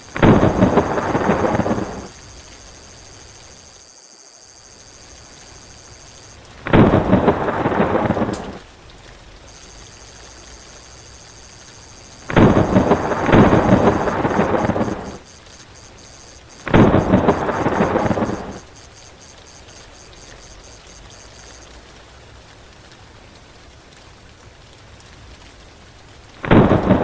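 Thunderstorm: steady rain with five loud claps of thunder, each lasting about two seconds, one near the middle longer with a double crack.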